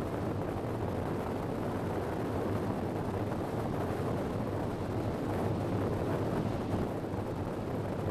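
Steady rushing noise of a passenger train running at speed, heard from an open window with wind buffeting the microphone.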